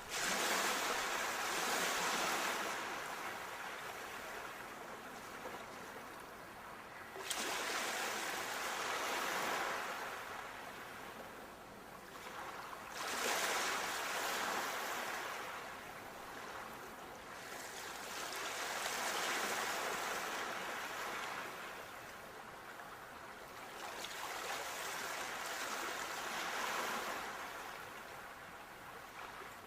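Ocean waves breaking on a shore: about five surges of surf, one every five or six seconds, each starting suddenly and washing away.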